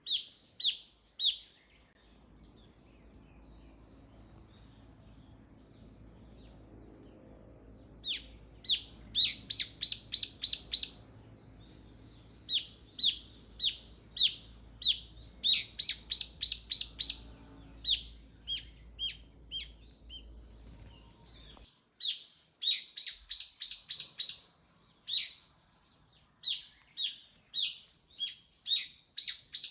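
A songbird calling loudly and repeatedly: short, sharp, high notes, sometimes single and sometimes in quick runs of five or six, with pauses between. A faint low rumble underneath cuts off suddenly about two-thirds of the way through.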